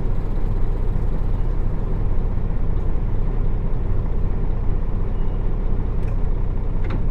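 Nissan Diesel PF6 inline-six diesel engine of a route bus running steadily, heard from inside the cabin as an even low rumble. A couple of faint clicks come near the end.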